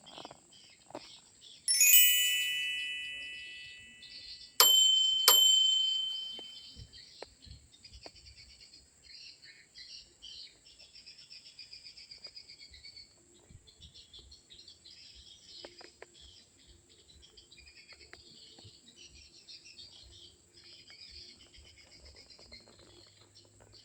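A chime rings out, then is struck twice more a few seconds later; each strike fades away. After the chimes, birds chirp steadily.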